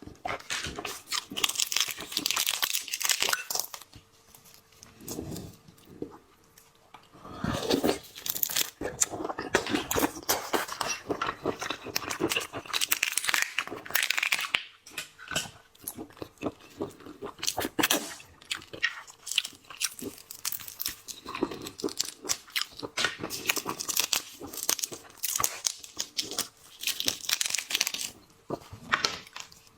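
Shellfish being eaten: shells crunching and cracking, tearing and chewing, in bursts with a quieter pause a few seconds in.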